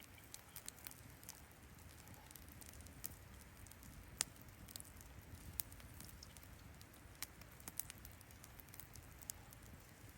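Campfire crackling faintly: sparse, irregular sharp pops and snaps over a low, steady background rumble, one louder pop about four seconds in.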